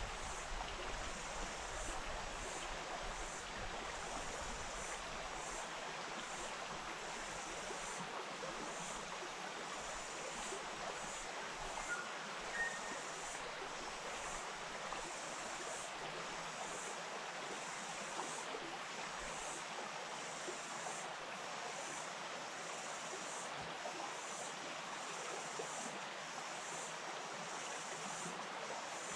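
The Wainuitewhara bush stream flowing steadily, a continuous even rush of water.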